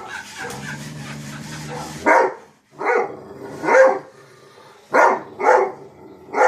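A dog barking in short, loud single barks, six of them, starting about two seconds in. Before the barking there is a low, steady drone that stops abruptly when the first bark comes.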